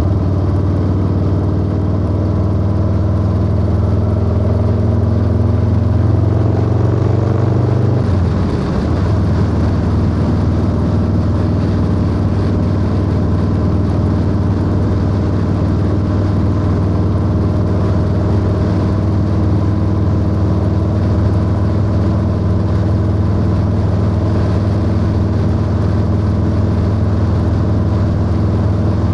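Harley-Davidson Low Rider S V-twin engine on the move, rising in pitch as it pulls through a gear for about eight seconds, then a gear change and a steady cruise for the rest.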